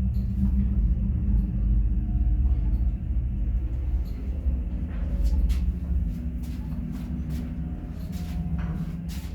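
Mogilevliftmash (MLM) passenger elevator's drive running loudly: a heavy low rumble with a steady hum over it, and scattered light clicks and knocks.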